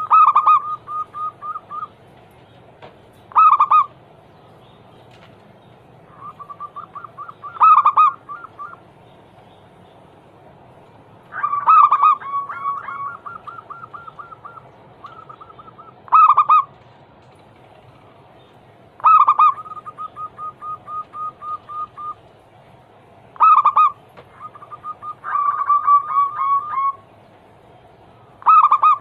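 Zebra doves (perkutut) cooing: about eight song phrases, each a loud opening note followed by a quick run of softer, evenly spaced coos, repeating every three to four seconds, with phrases overlapping near the end.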